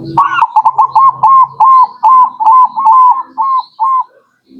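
Zebra dove (perkutut) singing: a run of about a dozen short, clear cooing notes, roughly three a second, that stops shortly before the end.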